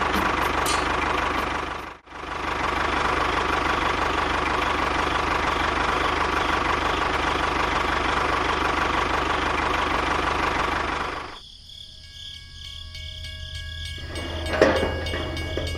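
A small engine running steadily, breaking off for an instant about two seconds in and stopping abruptly about eleven seconds in, leaving a quieter stretch with steady tones and a sharp knock near the end.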